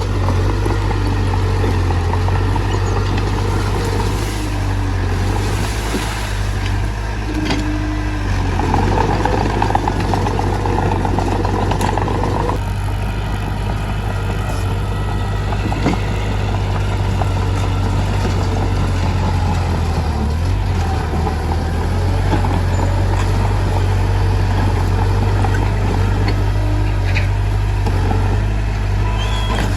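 Mitsubishi bulldozer's diesel engine running steadily as the machine works, with a louder, rougher stretch of working noise from about nine to twelve seconds in and a few scattered knocks.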